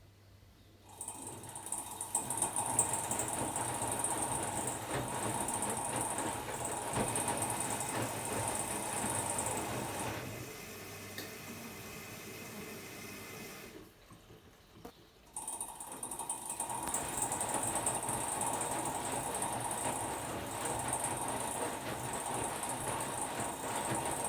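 Hotpoint-Ariston AQD972F washer-dryer taking in water, a steady hissing rush with a mechanical hum beneath it. It starts about a second in, softens midway, stops for about a second and a half, then runs again until the end.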